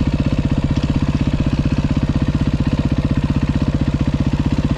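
2023 Beta 390 RR-S's single-cylinder four-stroke engine idling steadily with a rapid, even pulse.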